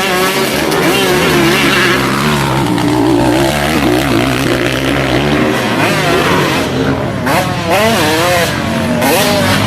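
Several two-stroke racing motorcycles revving hard, their engine pitches overlapping and rising and falling as the throttles open and close.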